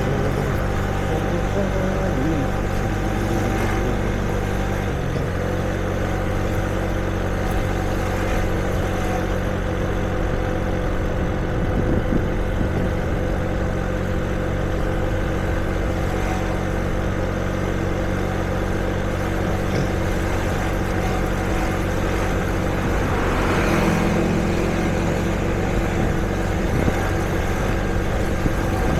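City street traffic: vehicle engines idling and running with a steady low hum, one passing a little louder about 24 seconds in.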